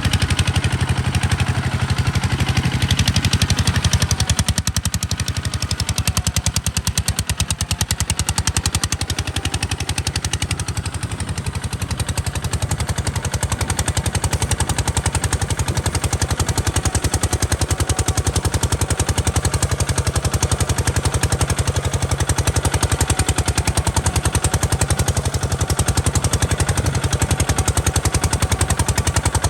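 Kubota RT140 DI single-cylinder diesel engine running steadily with a rapid, even, percussive exhaust beat. It gets a little quieter for several seconds early on, then steadies again.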